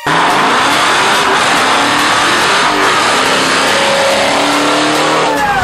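Car engine running at high revs, loud and steady, with a dense rushing noise over it; it starts abruptly.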